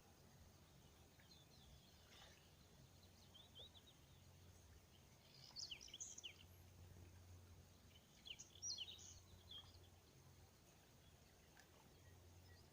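Quiet outdoor ambience with faint bird chirps: a few short, quick high notes about three seconds in, then two livelier bursts of chirping around six and nine seconds in, over a low steady hum.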